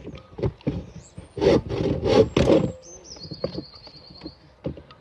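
A hand tool working wood: three loud scraping strokes in quick succession about a second and a half in, with lighter knocks and scrapes on the wood around them.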